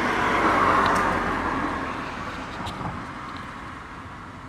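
Rushing noise of a passing motor vehicle, loudest about a second in, then slowly fading away.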